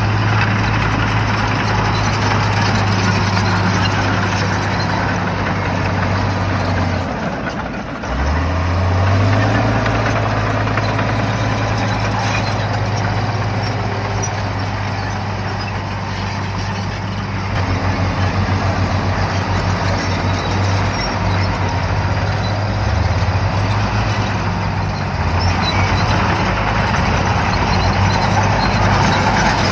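Bulldozer's diesel engine running hard with machinery noise over it. The engine note falls away about seven seconds in and picks back up a second later.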